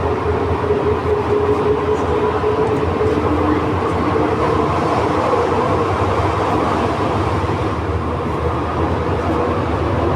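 Santiago Metro NS-93 rubber-tyred train running between stations, heard from inside the car: a loud, steady rumble with a steady whine over it.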